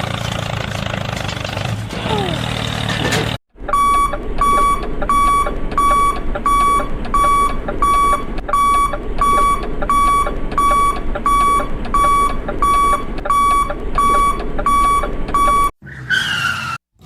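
A small motor or vehicle runs for about three seconds and then cuts off suddenly. After the cut, an electronic beeper sounds a steady run of identical high beeps, about two a second, for around twelve seconds.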